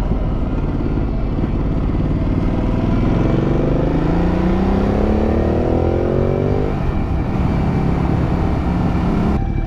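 Motorcycle engine under way with steady wind and road rush. From about three seconds in, the engine note rises steadily under acceleration, then falls away abruptly just before the seven-second mark.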